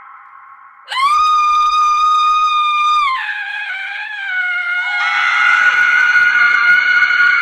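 Women's screams used as a horror sound effect: a fading scream, then about a second in a loud, high scream held steady for two seconds, which drops in pitch and wavers before a fuller, louder scream takes over at about five seconds.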